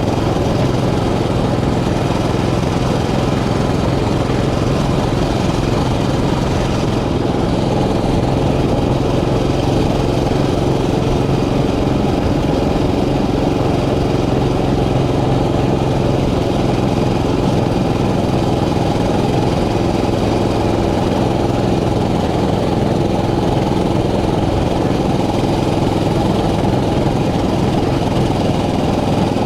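Small mini bike engine running steadily at an even speed, with no revving.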